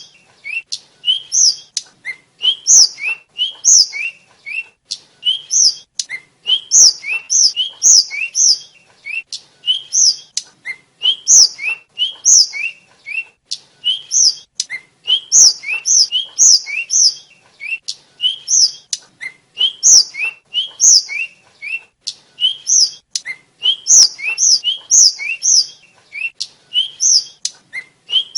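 Tledekan flycatcher (sikatan) singing a continuous, rapid song of short, sharp high notes delivered in quick runs of three or four with brief gaps.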